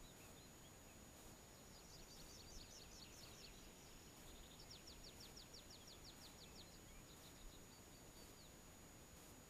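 Faint songbird song: a quick jumbled warble a couple of seconds in, then a run of about a dozen rapid repeated notes, over a faint steady hiss.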